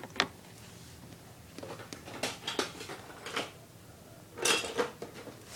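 Small plastic toy pieces of an Our Generation ice cream truck playset clicking and clattering as they are handled and set in place. A sharp click comes just after the start, scattered clicks follow, and a busier clatter comes near the end.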